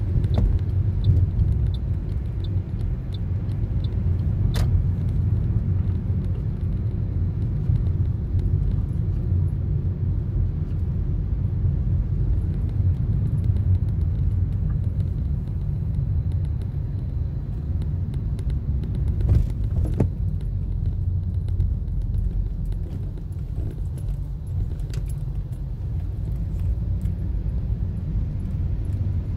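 Steady low rumble of road and engine noise inside a moving Toyota Corolla's cabin. There is light regular ticking in the first few seconds, and a few sharp clicks about five seconds and twenty seconds in.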